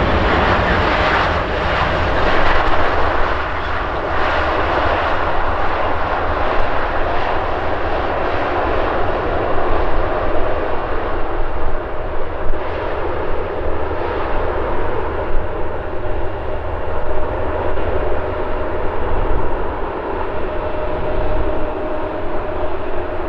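Four-engined Lufthansa Airbus A340-300 arriving to land, its jet engines making a steady loud rush with a held whine, the level even throughout.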